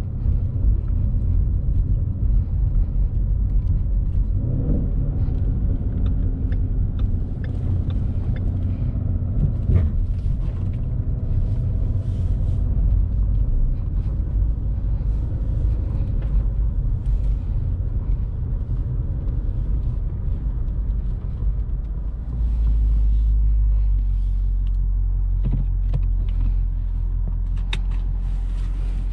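Ford Mustang GT's 5.0 V8 rumbling low and steady, heard from inside the cabin while driving at low speed. About 22 seconds in it steps up to a louder, steady low drone.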